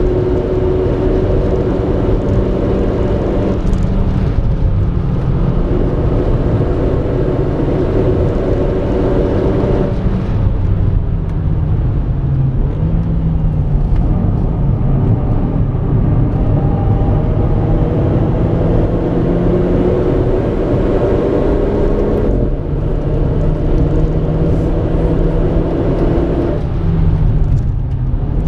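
Renault Clio RS220's turbocharged four-cylinder engine pulling hard, heard from inside the cabin. Its note climbs slowly through long stretches and falls away abruptly about four times, over a steady rumble of road and tyre noise.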